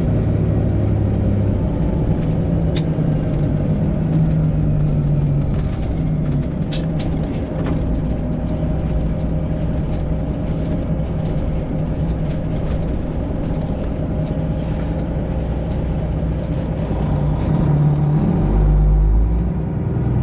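Detroit Diesel Series 60 12.7-litre engine of a Freightliner Classic XL semi truck running under way, heard from the cab; its drone shifts pitch a few times, with a few light clicks early on and a deeper, louder rumble near the end.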